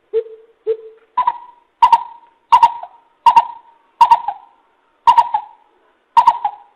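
A coucal (bìm bịp) calling: a series of nine deep hoots about one to one and a half per second, the first two lower and the rest a step higher.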